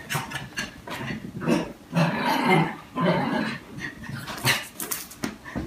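A pet animal making a string of short, low vocal sounds, about one or two a second.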